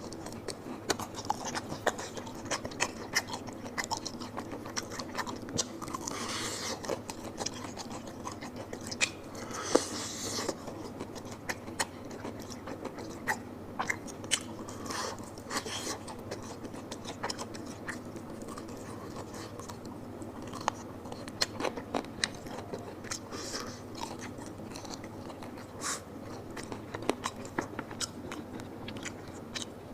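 Close-miked chewing and biting of McDonald's fried chicken wings: a steady run of wet mouth clicks and crisp crunches.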